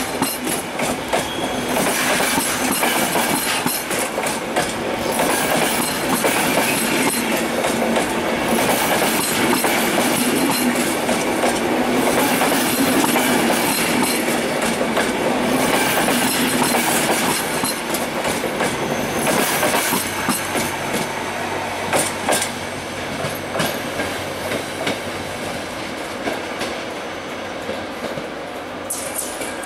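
A train passing close by: a steady rolling rush of wheels on rails with rapid clickety-clack over the rail joints. After about twenty seconds the rush eases and the clicks come more sparsely over a low steady hum.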